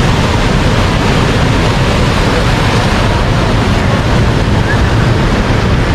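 Ocean surf washing ashore with wind rumbling on the camera microphone: a steady noise with no breaks.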